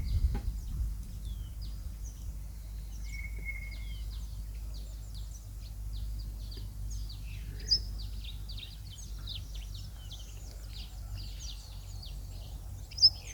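A chorus of birds at a river: many short, high chirps and twitters overlapping, with one held whistled note about three seconds in, over a steady low rumble.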